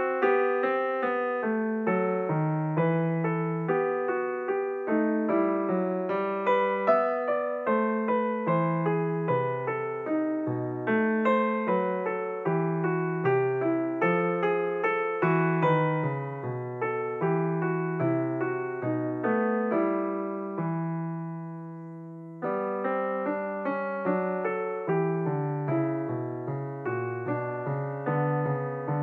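Background piano music, a steady run of notes that each ring and fade. About twenty seconds in the playing thins to a single fading chord, then picks up again.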